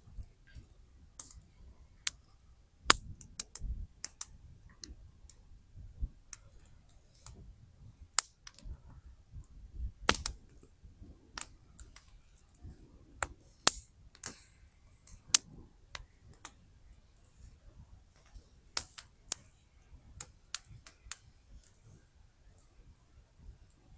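Wood fire crackling: firewood burning with irregular sharp pops and snaps, a few louder ones standing out, over a faint low rumble of the flames.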